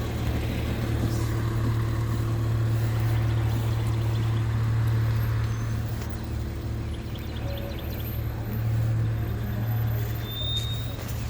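McNeilus garbage truck's engine running steadily with a low, even hum that swells slightly a couple of times.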